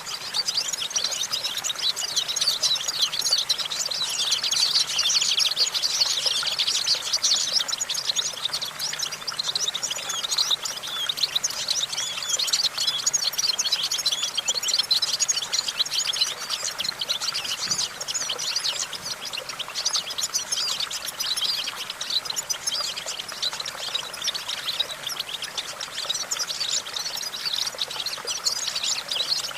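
European goldfinch singing a continuous song of rapid twittering chirps and trills.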